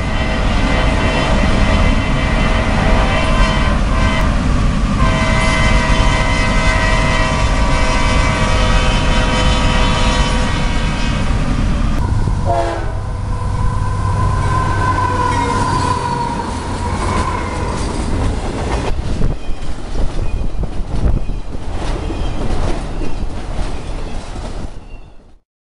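Diesel freight locomotive's air horn sounding long, steady chord blasts for about the first half. Then comes the loud rumble of a freight train passing close, with the clickety-clack of wheels over rail joints.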